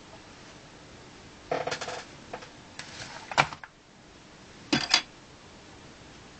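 Plastic LEGO bricks clattering and clicking as they are handled, in four short bursts of rattles and clicks.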